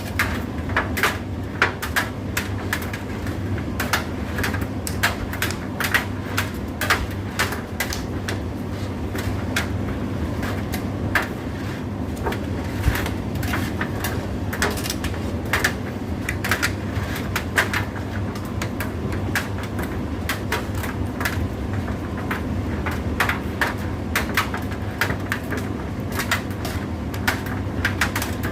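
Indesit IDC8T3 condenser tumble dryer running: a steady motor and drum hum with frequent irregular clicks and knocks.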